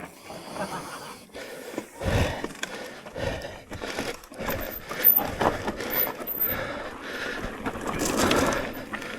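Electric mountain bike riding over a rough, rocky trail: tyres crunching on dirt and stones, with irregular knocks and rattles from the bike as it hits bumps.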